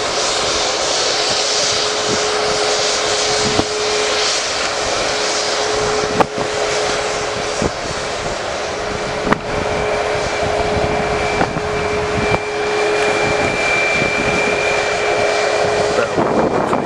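Jet airliner engines running with a steady roar and a steady whine. A higher whine joins about halfway through, and a few sharp clicks come through.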